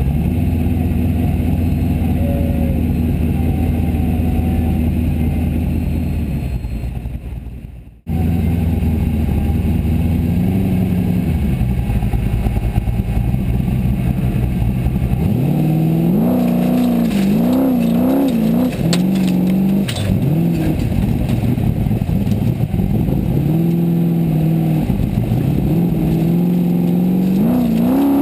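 Formula Offroad buggy's engine heard from the cockpit: running steadily at first, cut off about a third of the way in, then running again at a higher pitch. From about halfway it revs up and down over and over under load on a steep gravel climb, with scattered knocks and rattles.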